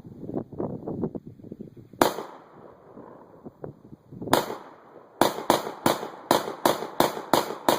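Saiga-12 semi-automatic 12-gauge shotgun firing birdshot. After some light clattering, two single shots come a couple of seconds apart, then a quick string of about eight shots at roughly three a second as the gun cycles round after round.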